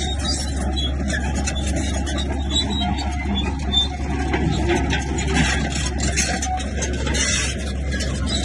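Heavy diesel earthmoving machinery running steadily, with a constant low engine hum and irregular clanking and scraping.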